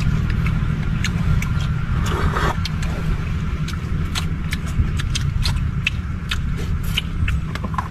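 A steady low rumble, like a running motor, with many small sharp clicks and taps scattered over it.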